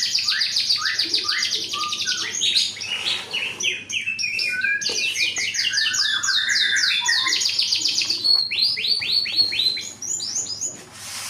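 Two songbirds singing together in a duet: long, fast trills of downward-slurred whistled notes, about eight a second, overlapping and changing pitch. The song stops near the end, followed by a brief rush of noise.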